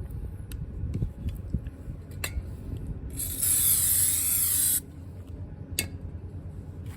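An aerosol spray can giving one hissing spray of about a second and a half in the middle, with a few sharp clicks and knocks of parts being handled around it.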